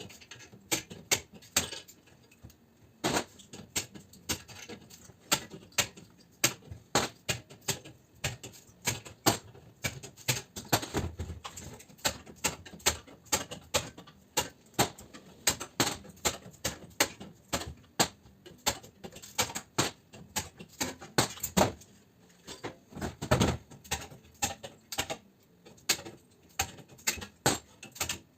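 Many sharp, irregular clicks and knocks, several a second, typical of hand tools and metal parts being worked while dismantling air conditioner units for scrap.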